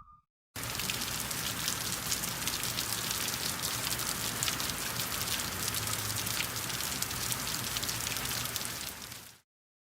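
A steady hiss thick with fine crackling patter, starting about half a second in and fading out near the end.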